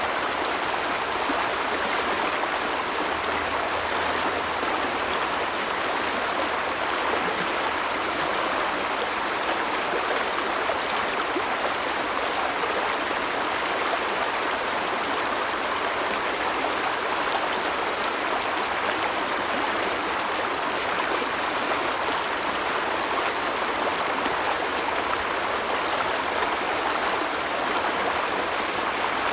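Stream water rushing over rocks, a steady unbroken splashing flow.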